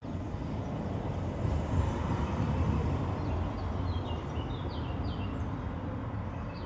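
Small birds chirping, a run of short, quick falling notes starting about halfway through, over a louder steady low rumble.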